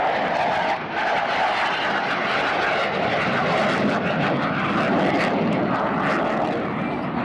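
Airplane engine noise from a fixed-wing aircraft in flight, loud and steady throughout, with the low end growing somewhat stronger in the second half.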